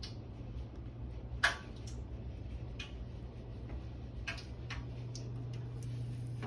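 Scattered light clicks and taps of a kitchen utensil against a bowl while coating an Oreo in pancake batter, the loudest about one and a half seconds in, over a steady low hum.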